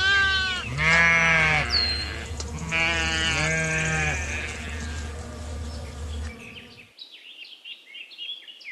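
Lambs bleating: a run of wavering calls, some high and some deeper, through the first four seconds or so, over a low steady hum. Faint bird chirps come near the end.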